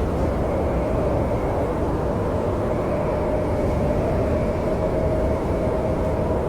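Steady snowstorm wind, a low rushing rumble with a faint held howling tone.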